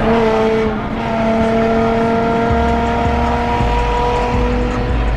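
Car engine running at steady high revs, heard from inside a moving car, with a deep rumble growing from about halfway through.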